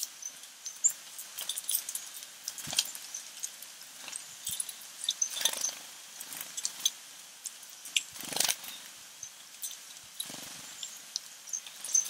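Small backyard birds giving many short, high chirps and calls throughout, with a few louder brief rustles spaced a couple of seconds apart.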